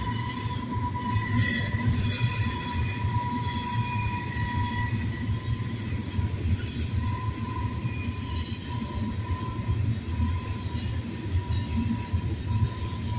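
Double-stack intermodal container cars rolling past on a curve: a steady low rumble of wheels on rail, with a steady high-pitched wheel squeal and fainter, shifting higher squeals above it.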